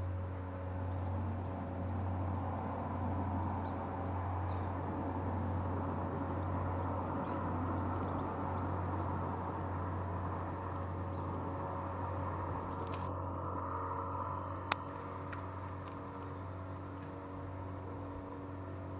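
A steady low hum, like a running motor, over outdoor background noise, with one sharp click about three-quarters of the way through.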